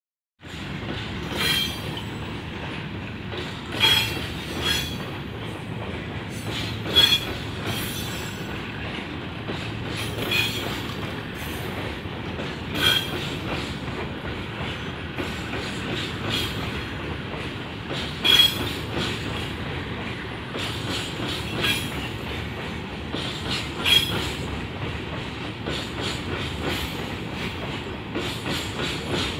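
Long train of freight hopper wagons rolling past on steel wheels: a steady rumble with clacks over the rail joints, and short high wheel squeals every few seconds.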